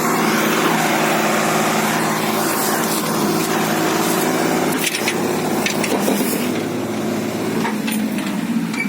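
Indo Farm 3035 DI tractor's diesel engine running steadily, with a few sharp clicks about five, six and eight seconds in.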